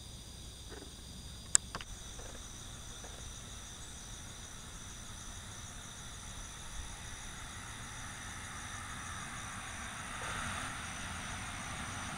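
Steady chorus of insects, crickets or cicadas, holding several high shrill tones. There is one sharp click about a second and a half in, and distant engine noise grows louder over the last few seconds.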